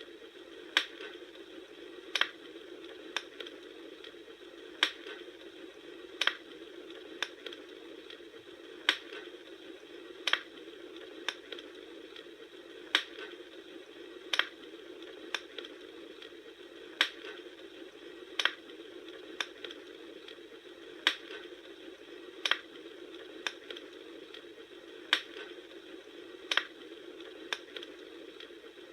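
Wood fire crackling: sharp irregular pops about once a second, some much louder than others, over a steady soft rush of burning.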